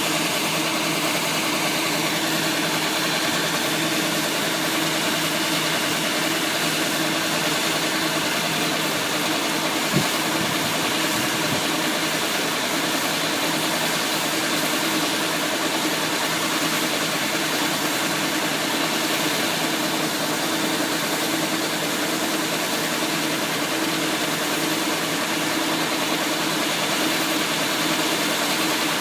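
Diesel engine of a Thai e-taen farm truck running steadily, with one sharp knock about ten seconds in.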